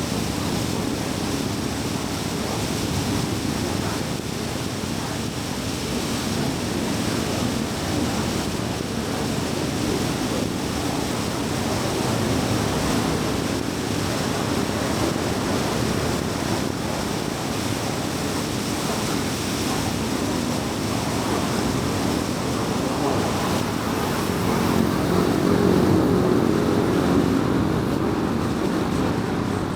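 Car driving at highway speed: steady tyre and road noise with wind. It grows a little louder for a few seconds near the end, with a faint engine-like hum.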